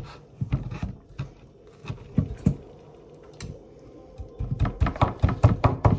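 Someone biting and chewing a soft taco close to the microphone: a run of quick wet clicks, thickest near the end.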